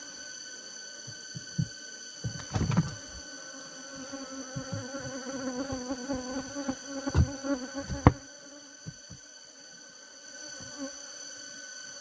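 Honey bees buzzing, swelling in the middle and fading after about eight seconds, with a few dull thumps. Steady high-pitched tones run underneath.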